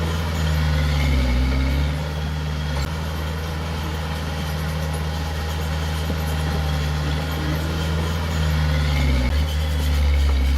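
Diesel engine of heavy earthmoving equipment running steadily, its pitch dipping briefly about a second in and again near the end.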